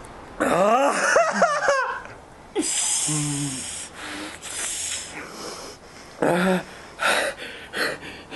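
A person wheezing, gasping and whimpering from the burn of freshly eaten bird's eye chillies: a wavering moan, then a run of sharp hissing breaths drawn and blown through the mouth.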